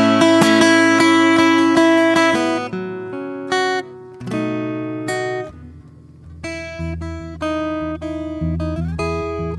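Solo acoustic guitar playing slow, improvised plucked notes and chords. The playing thins out to a brief lull about halfway through, then resumes with low bass notes under the melody.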